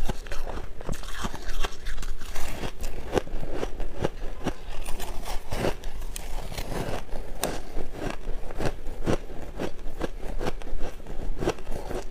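Shaved ice being bitten and chewed close to the microphone: a rapid, irregular run of sharp crunches and crackles.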